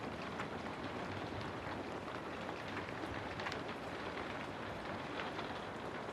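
Steady rainfall, with a dense hiss of rain and many distinct drops pattering on surfaces at irregular moments.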